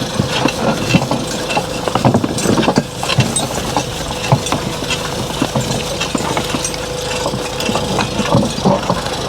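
Horse-drawn farm rig rattling and clanking as the team pulls it, with many irregular knocks and metal clinks from the wagon and harness over a steady rumble, and a faint steady whine.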